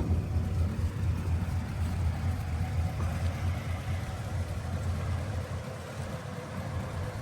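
Ford 24-stud flathead V8 idling steadily.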